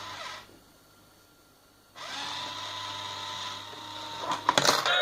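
Small electric motor of a novelty coin-eating money box whirring as the monkey figure pulls a coin in. It cuts out about half a second in, starts again about two seconds in, and ends with a few sharp clicks.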